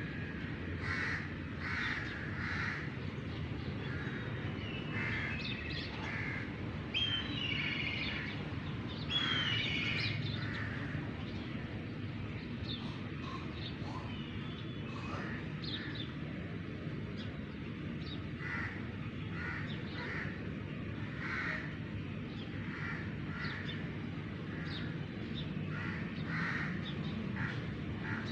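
Birds calling: short calls in groups of two or three, repeating every few seconds, over a steady low background rumble.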